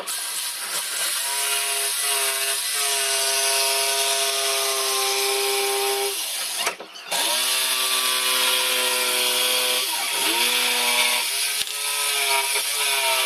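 Electric power tool motor whining steadily over a bright hiss, typical of machining wood. About seven seconds in it cuts out briefly and spins back up, and its pitch sags and recovers around ten seconds in.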